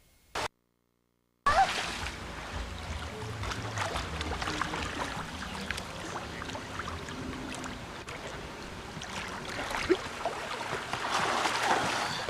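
Noise aboard a moving boat: a steady low rumble with wind and water hiss and scattered clicks. It starts abruptly after about a second and a half of silence and grows somewhat louder near the end.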